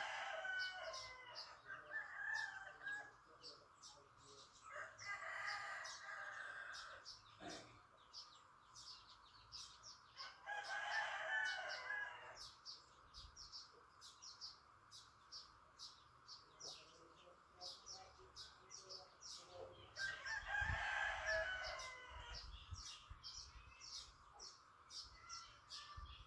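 Roosters crowing: four long crows a few seconds apart, over a steady high drone and many quick high chirps.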